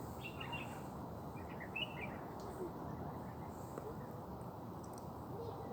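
Birds chirping, a few short chirps in the first two seconds, over a steady background of outdoor noise.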